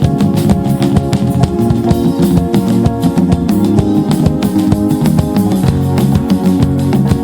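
Live worship band music, with guitar playing over a steady drum-kit beat.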